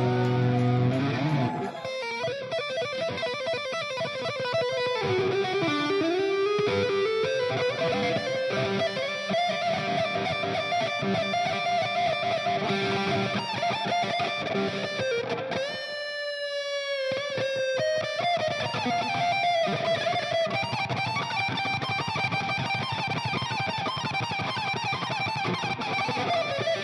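Electric guitar playing a fast lead solo: a held chord, then rapid runs of notes, with a pitch dive that swoops down and back up about 16 seconds in.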